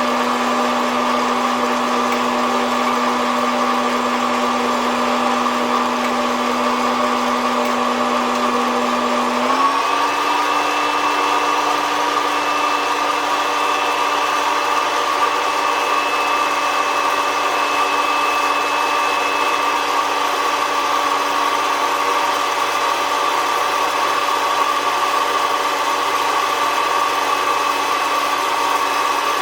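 The fan motor of a SOUYI SY-121N hot-air coffee roaster runs with a steady hum. About nine seconds in, its pitch steps up slightly and then holds steady at the new speed.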